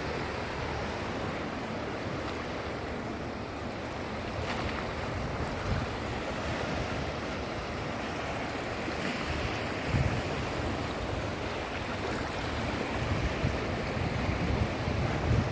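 Sea waves washing onto the shore, with wind buffeting the microphone in low gusts, about ten seconds in and more often near the end.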